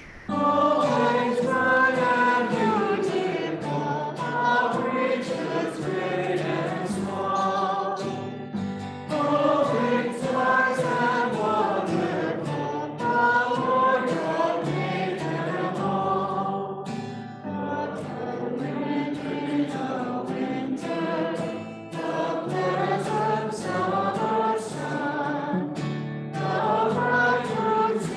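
A choir and congregation singing a hymn over steady accompanying chords, in phrases with short breaks between them.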